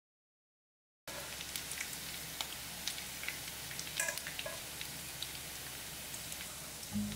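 Silent for the first second, then food frying in hot oil in a pan: a steady sizzle with many scattered crackles and pops, most likely the eggplant-rice balls browning.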